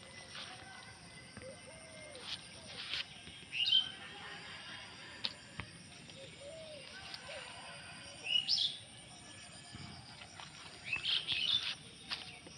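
Birds calling: a sharp call that sweeps in pitch about four seconds in, the same call again around eight seconds, and a quick cluster of chirps near the end, with scattered faint clicks and rustles.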